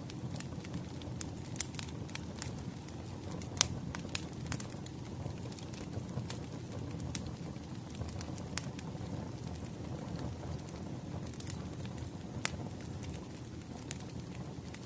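Crackling wood fire: a steady low rumble of flames with irregular sharp pops and snaps from the burning wood, one louder pop about three and a half seconds in.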